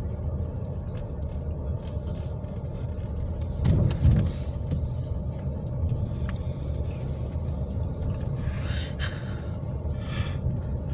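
Steady low rumble of a car heard from inside the cabin, with a louder bump about four seconds in.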